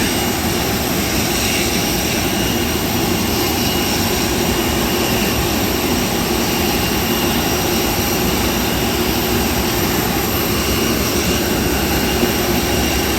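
Steady drone of a jet airliner's engines and rushing air, as heard from inside the passenger cabin. It holds level without rising or falling.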